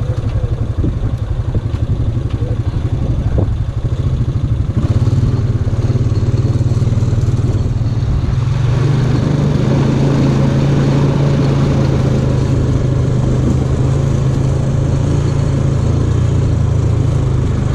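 Steady engine drone with a fast pulsing, which evens out and grows fuller about eight seconds in.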